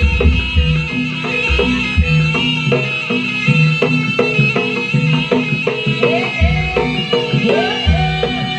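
Javanese jaranan music played loud: a shrill reed melody over drums and deep, regularly struck low gong-like beats.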